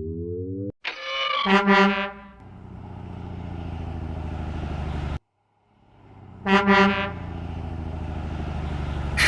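Garbage truck sound effects: a short rising tone, then a horn honks and a steady engine hum follows; the horn-and-hum pattern repeats after a brief silence.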